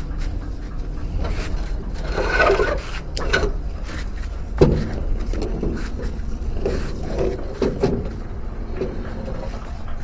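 Knocks, clatter and scraping of metal parts and tools being handled while an air conditioner is taken apart, with one sharp knock about halfway through, over a steady low rumble.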